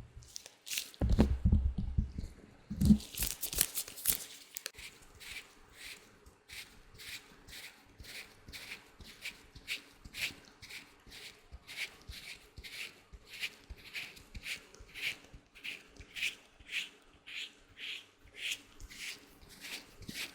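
Latex gloves handled close to the microphone: a few heavy thumps and a crinkly rustle near the start, then a steady run of short, crisp rubbing strokes, about two or three a second.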